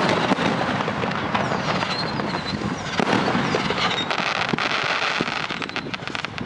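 Fireworks display: a dense run of crackling and many sharp pops from bursting shells, with a few brief whistles about two and four seconds in.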